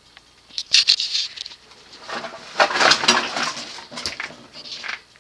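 Balloon strings caught inside a ceiling fan's GE stack motor housing, rubbing and scratching in irregular bursts with scattered ticks as the fan runs. The fan is choked by the strings.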